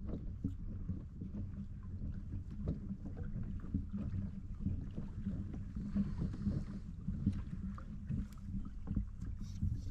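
A kayak moving on the water: water sloshing and knocking against the hull, over a steady low rumble.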